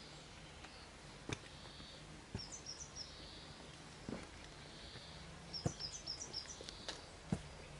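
Faint outdoor ambience: a small songbird sings two short phrases of quick, high notes stepping down in pitch, one about two and a half seconds in and one near the end, over a low steady hum, with a few sharp taps.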